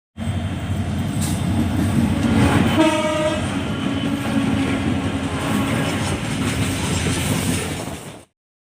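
Diesel-hauled freight train running past with a steady rumble of wheels on the rails, and a short horn blast about three seconds in. The sound cuts off abruptly shortly before the end.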